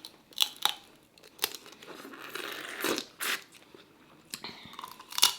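Boiled lobster and crab shells being cracked and torn open by hand and eaten close to the microphone: a series of sharp cracks and crunches, with a longer tearing, chewing stretch around the middle.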